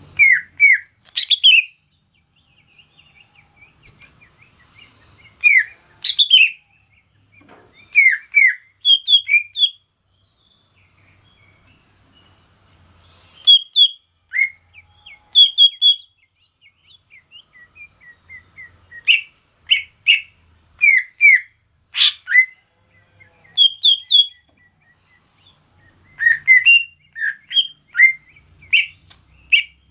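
Cucak ijo (green leafbird) singing in short bursts of quick, falling whistled notes, a few notes at a time with pauses of a second or two between phrases. A steady high hiss runs behind.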